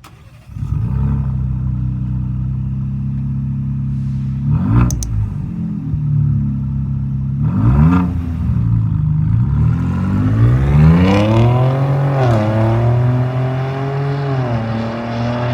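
2021 Ford Bronco's 2.7-litre EcoBoost V6 through an MRT dual-tip straight-through axle-back exhaust. It comes in about half a second in and idles, is blipped twice, then is revved in a long rising rev that is held up for a few seconds before dropping back near the end.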